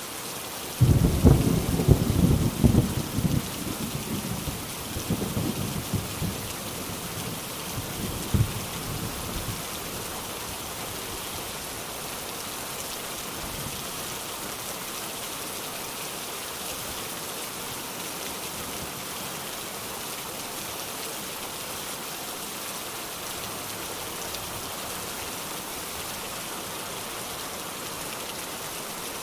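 Steady rain falling, with a clap of thunder about a second in that rumbles and crackles for several seconds and dies away before ten seconds; after that only the rain.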